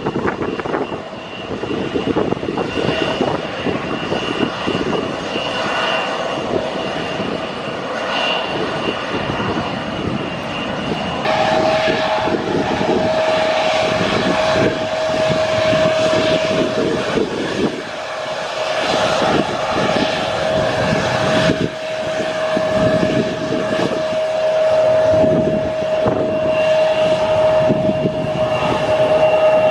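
Jet airliner engines running close by with a steady high whine over a broad roar; the sound steps up abruptly about 11 seconds in. Strong gusty wind buffets the microphone throughout.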